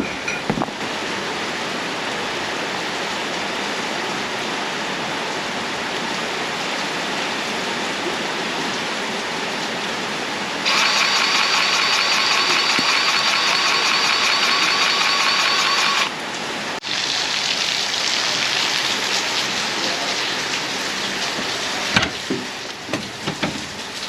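Steady rain falling, an even hiss. It turns louder and brighter for about five seconds in the middle, then eases back, with a few light knocks near the end.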